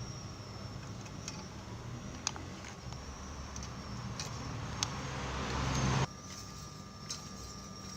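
Small electric motor running with a steady hum and scattered light clicks; the sound swells louder over a few seconds and cuts off sharply about six seconds in, leaving a quieter hum.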